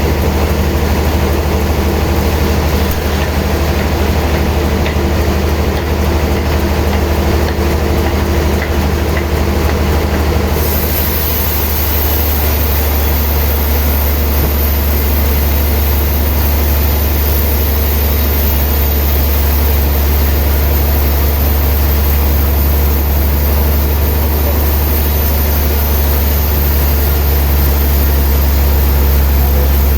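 Heavy sawmill machinery running with a steady, loud low hum. The sound shifts abruptly about a third of the way in, with a hiss added on top.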